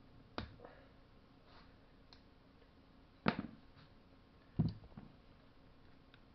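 Three light knocks and a few fainter clicks of small parts or hand tools being handled during chainsaw reassembly, spaced a second or more apart.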